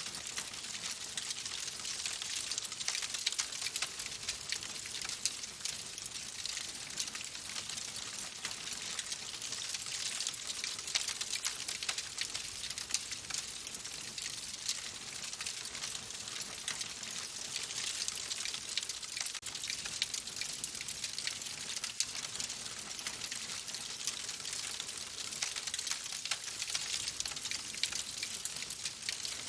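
Wood fire crackling in a fireplace: a steady hiss dense with small, sharp pops throughout.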